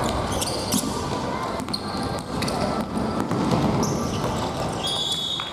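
Indoor futsal play on a gym court: sneakers squeaking on the floor several times, with a longer squeak near the end, a few sharp ball kicks, and players' voices calling out across the hall.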